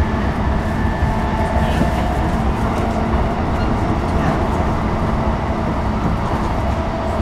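Interior running noise of a JR E233-6000 series electric commuter train between stations: a steady rumble of the wheels on the rails.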